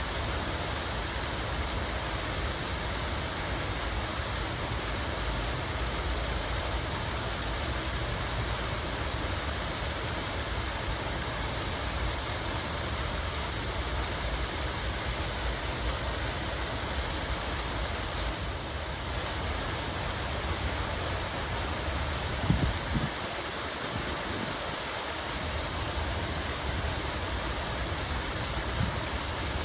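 Steady rush of running water. A short low thump about two-thirds of the way through, and a smaller one near the end.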